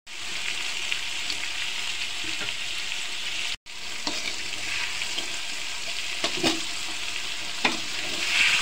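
Sliced sword beans sizzling steadily as they fry in a metal pan, with a few scrapes as they are stirred in the second half. The sound cuts out for a moment about a third of the way in.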